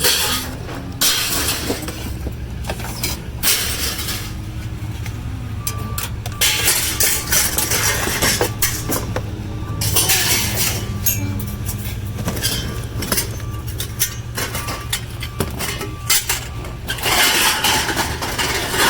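Scrap metal clanking and clattering as pieces are tossed into a load, many separate impacts, over a vehicle engine running steadily.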